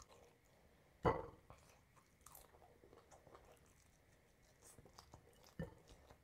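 Close-miked eating: a person chewing food with many small mouth clicks, and a loud crunch about a second in, with another shorter one near the end.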